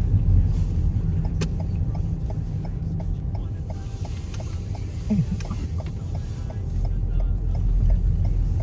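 Car driving on a snowy road, heard from inside the cabin: a steady low engine and tyre rumble, with a light, even ticking about three times a second through most of it.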